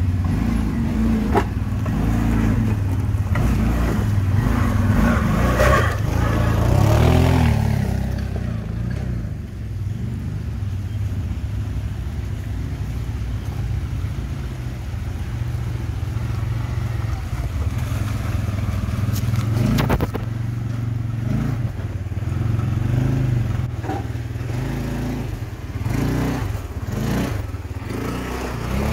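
ATV engine running while riding a trail, rising and falling in speed for the first several seconds and then running more steadily. A few sharp knocks come near the middle and toward the end.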